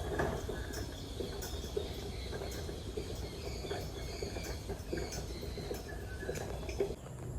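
Aviary ambience: many short bird chirps and calls over a steady high insect buzz, with a low rumble beneath. The high chirping and buzz drop away abruptly near the end.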